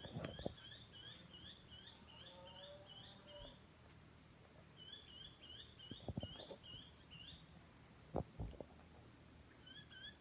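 Insects droning steadily at a high pitch, with runs of quick repeated chirping calls from a bird or insect, and a wood campfire popping and crackling in short bursts near the start, about six seconds in and about eight seconds in.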